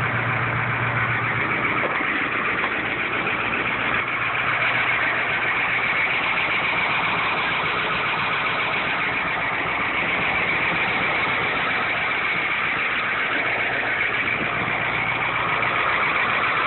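Caterpillar 1160 V8 diesel in a 1974 Ford 8000 truck running steadily at idle, after a cold start.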